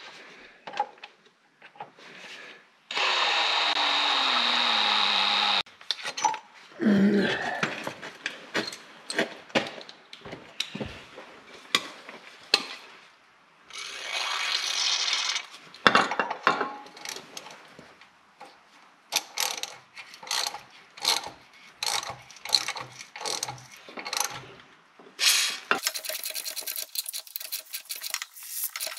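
Hand metalworking on steel: a power drill runs in steady spells of a few seconds, about 3 s in, again near the middle and from near the end on, with short clicks and scraping of tools on metal between them.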